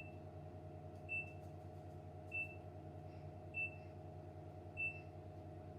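A short, high electronic beep repeating evenly about every 1.2 seconds, five times, over a steady low electrical hum.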